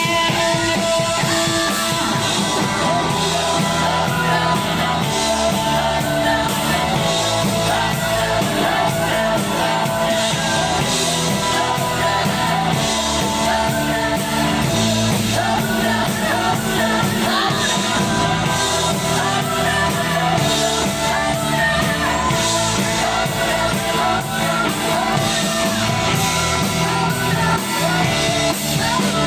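Live rock band playing a song at full volume, with drums, electric guitars and a singing voice.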